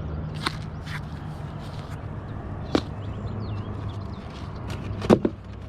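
Bait containers being handled: a few sharp clicks and knocks, the loudest near the end, over a steady low hum.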